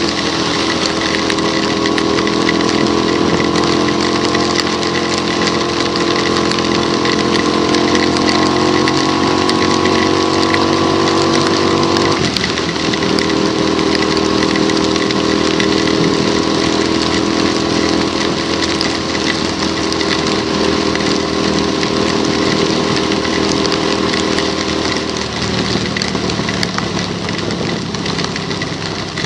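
Motorcycle engine running under way on a rain-soaked road, over a steady hiss from the wet road and rain. The engine note climbs slowly, drops sharply about twelve seconds in, then holds steadier, changing again near the end.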